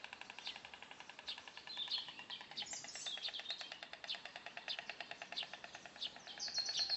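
Birds chirping, with short rising and falling chirps scattered over a fast, even pulsing trill that repeats many times a second.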